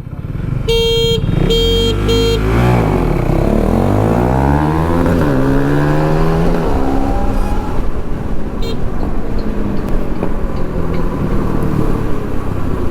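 Three short beeps, then a KTM Duke 390 single-cylinder engine accelerating hard from a standing start, its pitch climbing, dropping at gear changes and climbing again, before giving way to steady wind and traffic noise at speed.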